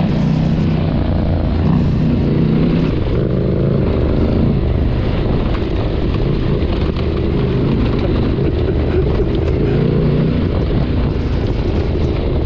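Adventure motorcycle's parallel-twin engine running steadily while riding, the engine note shifting a little over a continuous rushing noise.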